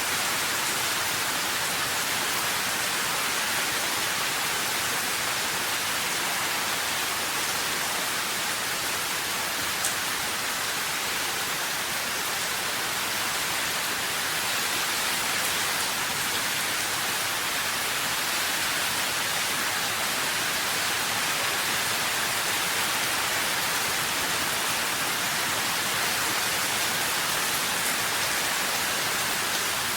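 Steady rain, an even hiss of falling drops that does not change.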